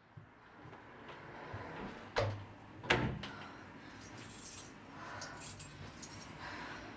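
Two sharp knocks, about two and three seconds in, then light metallic jingling several times.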